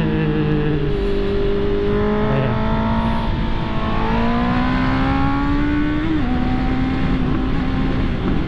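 Honda CB650R's inline-four engine heard from the rider's seat over wind and road noise: the pitch eases down, then rises steadily under acceleration, drops sharply about six seconds in at a gear change, and holds steady after.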